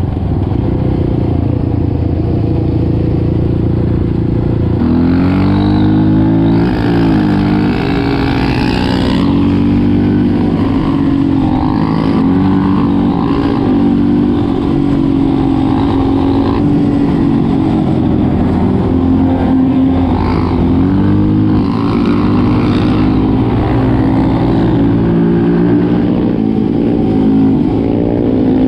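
Quad bike engine running while riding, its pitch rising and falling again and again as the throttle is opened and closed.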